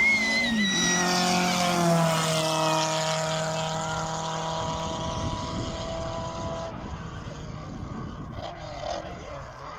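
A classic race car's engine at high revs passes close by, its pitch stepping down as it goes past, then fades steadily as it pulls away up the hill.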